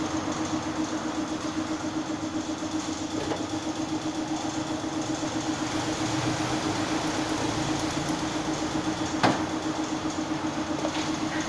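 Car engine idling steadily with an even pulse, and a single sharp click about nine seconds in.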